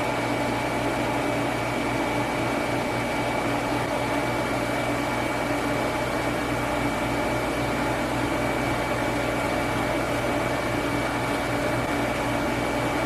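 Steady hum and hiss of a running machine, with a faint, steady high-pitched whine.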